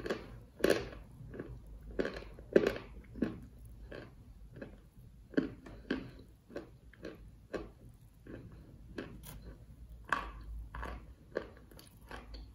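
Close-miked chewing of crunchy chalk: sharp crunches about one or two a second, loudest in the first few seconds, then softer, quicker crunches, with a louder run again near the end.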